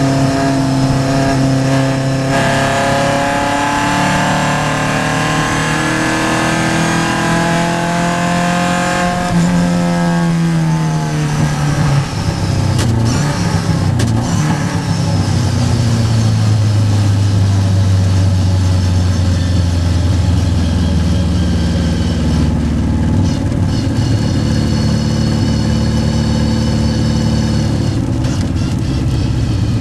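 Triumph vintage race car's engine heard from inside the car at racing speed. The revs climb for several seconds after a shift, drop away for a few seconds as the driver lifts, then hold fairly steady under load.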